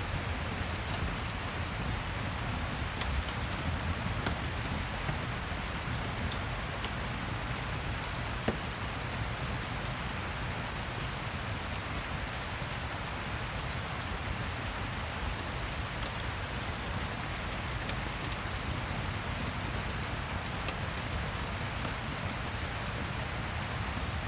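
Steady rain falling, mixed with a fireplace, with scattered faint ticks and one sharper pop about eight seconds in.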